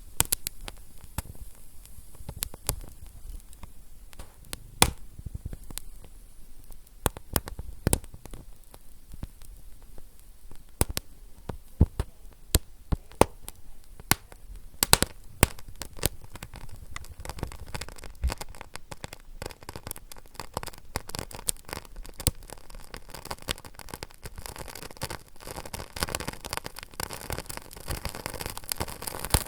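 Fire crackling: sharp pops and snaps at irregular intervals over a low, steady rumble. The crackle grows denser and hissier over the last third.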